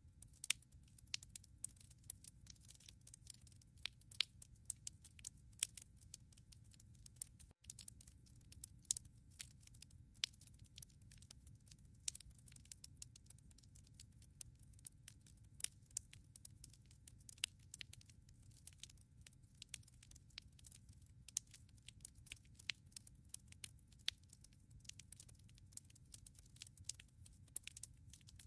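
Wood fire in a fireplace crackling: many sharp, irregular snaps and pops over a low steady rumble of the flames. The sound cuts out for an instant about seven and a half seconds in.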